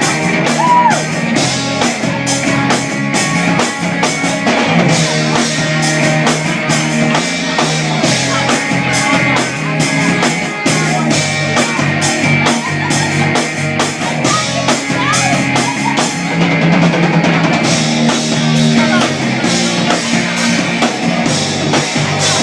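A live rock trio playing loudly: drum kit keeping a fast, steady beat under electric guitar and bass.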